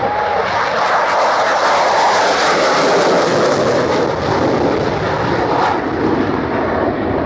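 Jet noise from a Czech Saab JAS 39 Gripen fighter's Volvo-built turbofan, a dense rushing sound that swells about a second in and eases off after about six seconds.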